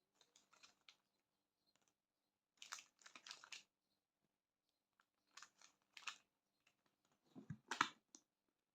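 Quiet crinkling and rustling in four short spells, the last and loudest near the end with a dull low knock in it.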